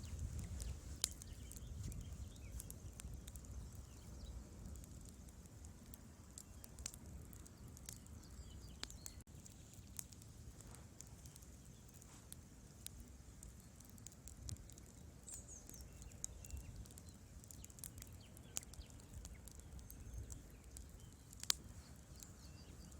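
Wood fire burning in a fireplace: scattered sharp crackles and pops over a soft low rumble of the flames, with one louder pop near the end.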